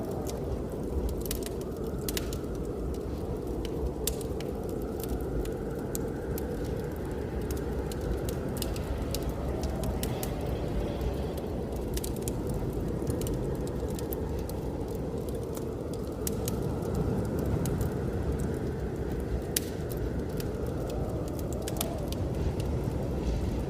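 Wood fire crackling in a fireplace, with irregular sharp pops, over the steady rush of blizzard wind that swells and fades in slow gusts.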